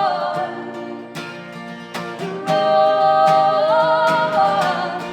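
Live acoustic song: strummed guitar under voices singing long held notes in harmony, the notes wavering and moving in pitch.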